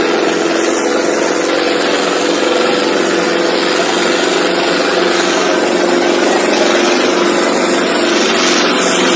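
Ace 6565 tractor's diesel engine running loud and steady under heavy load while pulling three harrows.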